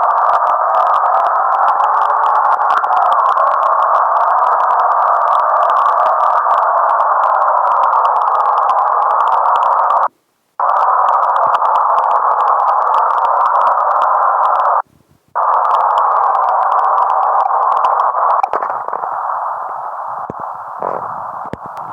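A loud, steady, tone-like whine that cuts out briefly twice, then turns softer and more mixed near the end.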